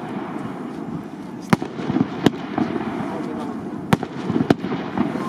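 Fireworks battery of 48 mm shells firing: four sharp bangs, the first about a second and a half in and the last near the end, over a steady background rumble and crackle.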